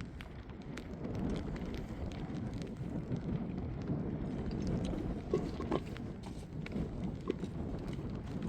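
Wind buffeting the microphone as a steady low rumble, with scattered light knocks and clicks throughout and a brief squeak a little past the middle.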